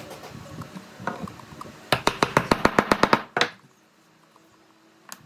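A rapid run of sharp knocks, about ten a second for just over a second, then one more knock and near quiet with a single click near the end.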